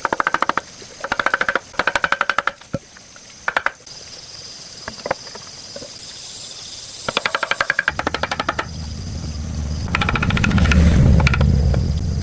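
Power tool hammering rapidly in short bursts of about a second each, several times, with an engine rumble joining about eight seconds in.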